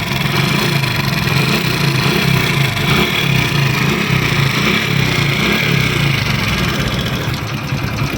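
Honda Pridor's 100cc single-cylinder four-stroke engine idling steadily with a loud mechanical clatter from inside the engine, a noise the mechanic traces to a slack timing chain.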